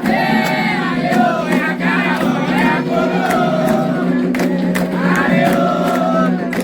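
A group of voices singing a Candomblé chant together, with the melody gliding up and down, punctuated by sharp percussion strikes.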